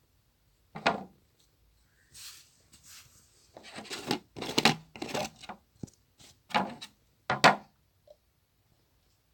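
Hands working a batch of slime, about six short squishing and rubbing noises at uneven intervals.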